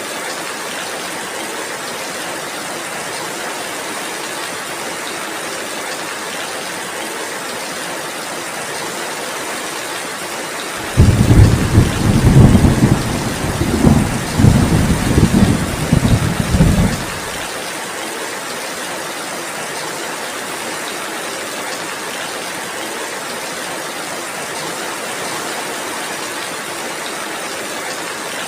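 Steady heavy rain hissing, with a loud peal of thunder that breaks in suddenly about eleven seconds in and rumbles for about six seconds before stopping.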